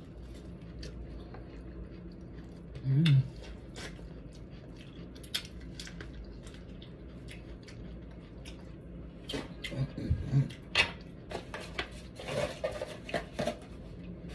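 Eating sounds up close: chewing and wet mouth clicks as corn on the cob is eaten, with a brief low hum-like voice sound about three seconds in. Scattered taps and rustles of handling food and a paper towel come in clusters in the second half.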